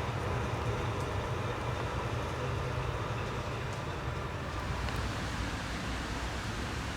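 Trieste–Opicina tram running on its rails: a steady low rumble with a few faint ticks.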